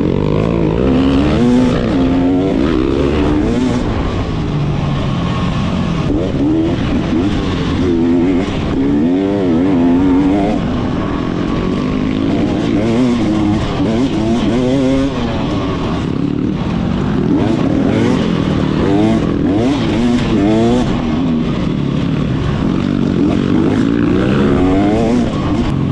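Motocross dirt bike engine being ridden hard, the revs rising and falling again and again through throttle and gear changes, with wind rush over the engine.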